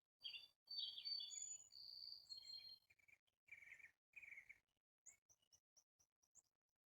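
Faint bird calls: a run of short, high calls and chirps for the first few seconds, followed by a quick series of tiny high chips near the end.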